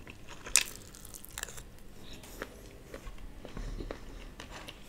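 A man chewing a mouthful of vegetable vermicelli upma close to the microphone: one sharp click about half a second in, then soft, wet chewing clicks.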